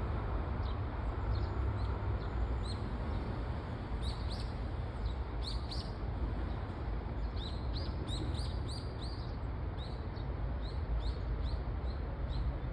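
Small birds chirping: short high chirps, bunched into quick runs near the middle, over a steady background rush.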